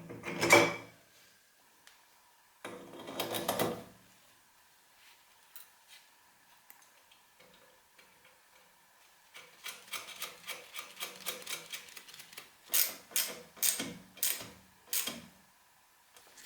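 Workshop handling noises from tools and parts: two short rustling, scraping bursts, then a run of quick clicks and taps that ends in about five sharp knocks.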